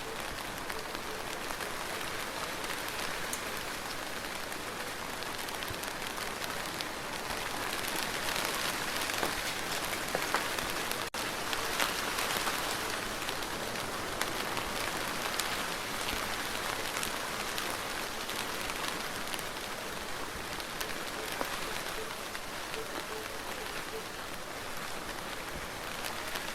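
Steady rainfall, an even hiss of rain with scattered sharper drop hits, and a brief dip in level about eleven seconds in.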